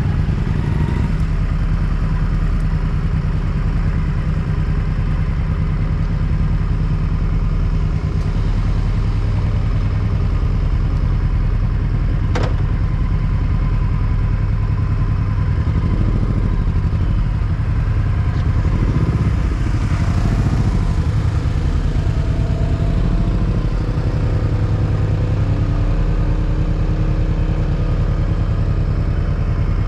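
Motorcycle engine running steadily while riding, with one sharp click about twelve seconds in.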